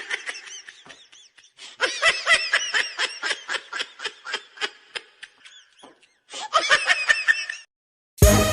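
A person laughing hard, a quick run of repeated 'ha' sounds at a steady rhythm, broken twice by short pauses: a laughing sound effect.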